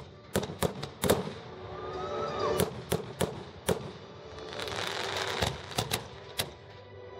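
Fireworks display: a string of sharp bangs scattered through, with a stretch of dense crackling past the middle.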